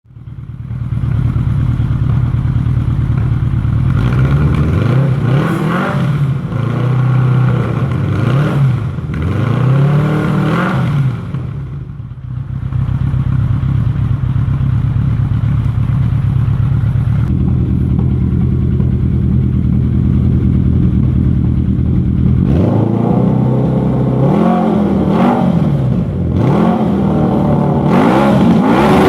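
Yamaha XJR1300's air-cooled inline-four running through an aftermarket Dewils exhaust, idling and revved by throttle blips: several blips in the first ten seconds or so, a steady idle in the middle, and more blips near the end.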